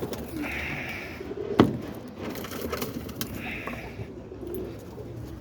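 Roller pigeons cooing in a loft, with one sharp knock about one and a half seconds in and two brief hissing rustles.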